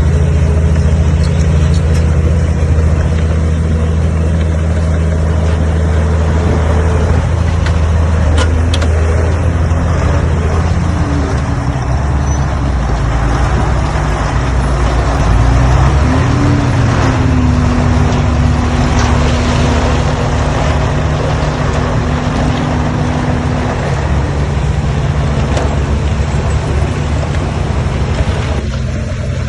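Heavy diesel engines of earthmoving machinery running steadily under load. About halfway through the engine note shifts, and a higher steady whine rises in and holds for several seconds.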